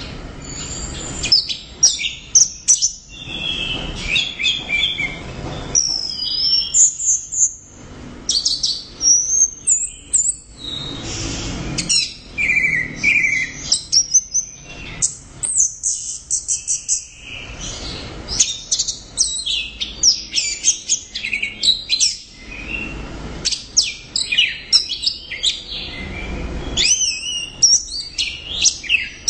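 Orange-headed thrush singing loudly and continuously: a long run of rapid, varied whistles and trills, broken by short pauses between phrases.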